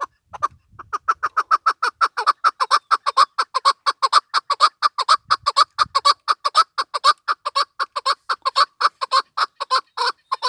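Chukar partridge calling: a long, fast run of short clucking notes, about five a second, building in strength over the first second or two.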